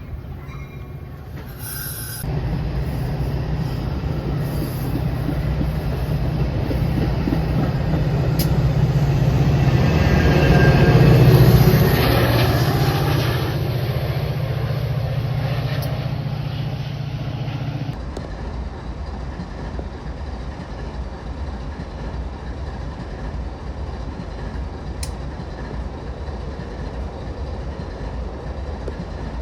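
Diesel train passing through a station: a steady low engine hum and rolling rail noise that builds to its loudest about eleven seconds in, then fades off. The sound changes abruptly partway through to a steadier, quieter rumble.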